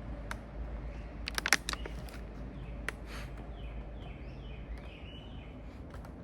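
A bird singing a run of short, repeated sloping notes, about two a second, through the second half. There are scattered sharp clicks, with a quick cluster of them about a second and a half in.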